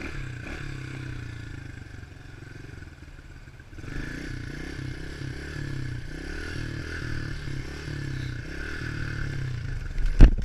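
A 110cc pitbike's single-cylinder four-stroke engine running low, then pulling harder with wavering pitch from about four seconds in as the bike gets moving. Near the end there is a loud, sharp clattering knock.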